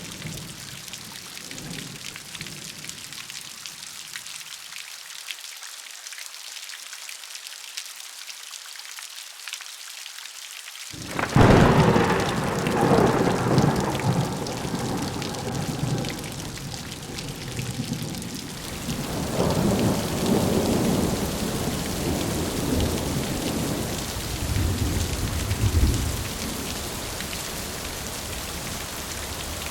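Steady rain falling in a thunderstorm. About a third of the way in, a sudden thunderclap breaks and rolls on for several seconds, followed by a second long rumble of thunder that fades out near the end.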